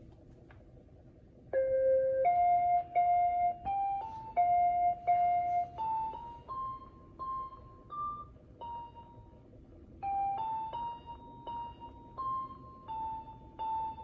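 Mr. Christmas Gold Label musical Ferris wheel playing a Christmas tune: a simple electronic keyboard-like melody, one note at a time, that starts about a second and a half in over a low steady hum.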